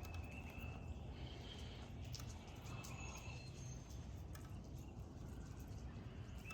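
Quiet backyard ambience: faint bird calls, a few short high whistled notes, over a low steady background rumble, with faint scattered ticks.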